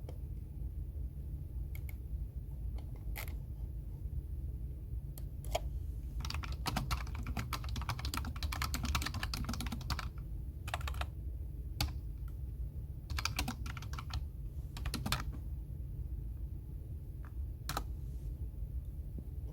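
Typing on a computer keyboard. A few scattered keystrokes, a fast run of typing from about six to ten seconds in and another burst around thirteen to fifteen seconds, over a steady low hum.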